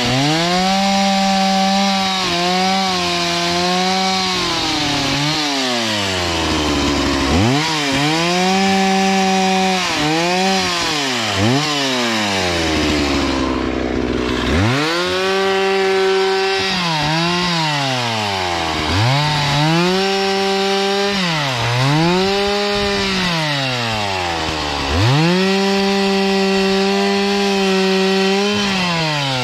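Gasoline chainsaw cutting wood, throttled up to full speed and held there for a few seconds on each cut, then dropping back to idle in between, about six times over.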